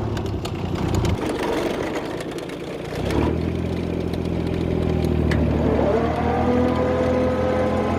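Small farm tractor engine running. It fades back about a second in and picks up strongly again about three seconds in. Near six seconds a rising tone levels off into a steady note.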